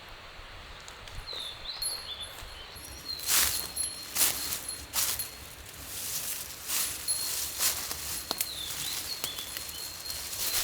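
Irregular rustling crunches, several in a row from about three seconds in, over outdoor ambience with a thin, high chirping in the background.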